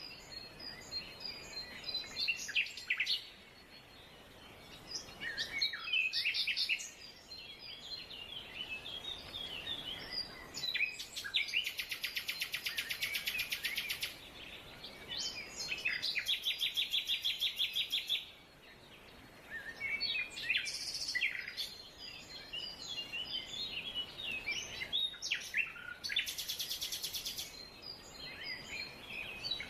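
Several songbirds singing and calling together in a mix of short chirps and whistles. Three rapid trills of about two seconds each stand out above the rest.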